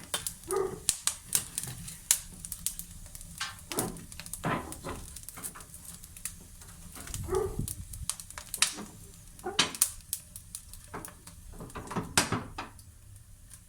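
Irregular sharp clicks and knocks, a few a second in clusters, with two short low pitched blips about half a second and seven seconds in.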